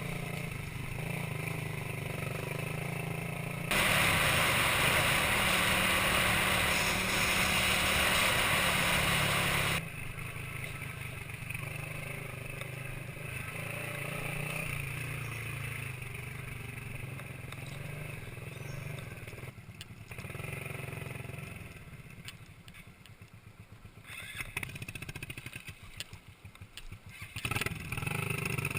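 Minsk 125 cc two-stroke motorcycle engine running while riding, with a loud rushing noise from about four to ten seconds in. The engine sound drops and turns uneven a little past twenty seconds, then picks back up near the end.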